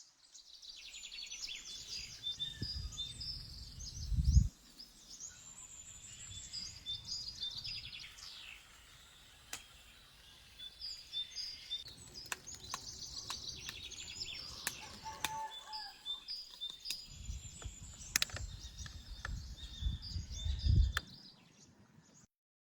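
Small birds chirping and singing, many quick repeated notes. Low rumbling noise on the microphone comes twice, early on to about four seconds in and again near the end, with a few sharp clicks.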